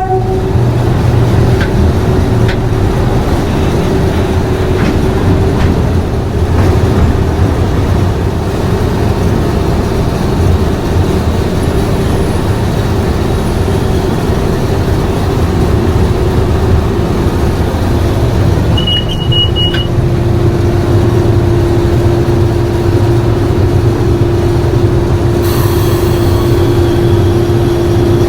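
The English Electric 12CSVT V12 diesel engine of Class 37 D6700 running steadily, heard from on board the locomotive, with a deep rumble and a steady droning tone. A brief high-pitched squeal comes about two-thirds of the way through, and a rushing hiss joins near the end.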